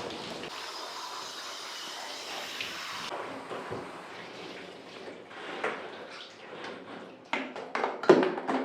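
Water running from a tap for about two and a half seconds, starting and stopping sharply, followed by light handling sounds and a cluster of sharp knocks near the end.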